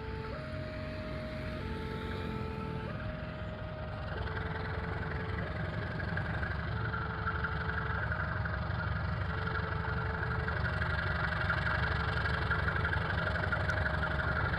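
Railway level-crossing alarm sounding, alternating a higher and a lower electronic note every second or so, while an approaching train's engine rumble and rail noise grow steadily louder.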